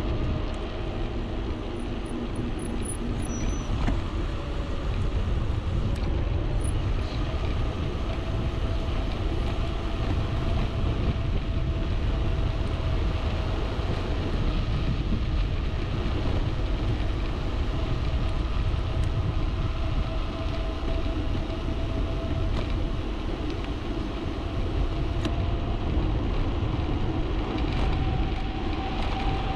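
Wind buffeting the microphone while riding an e-bike, a steady low rumble, with a faint steady whine that rises slightly near the end.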